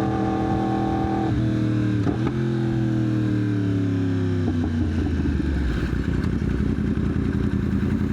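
Yamaha R1 motorcycle engine running at a steady note, its pitch dropping in two steps a little over a second and two seconds in, then falling steadily as the bike slows. From about five seconds it settles into a low, uneven idle.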